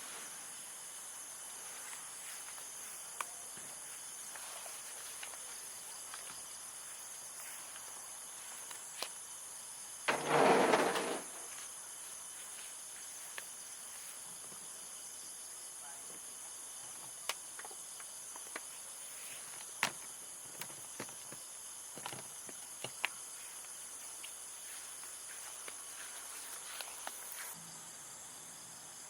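Night insects, crickets among them, trilling steadily in a high continuous chorus, with scattered small clicks and one short louder noise about ten seconds in. The chorus thins out near the end.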